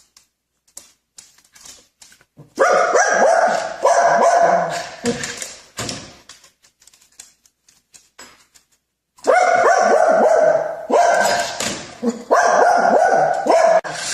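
A dog barking over and over in two runs, the first starting about two and a half seconds in and the second about nine seconds in, with a quiet gap between.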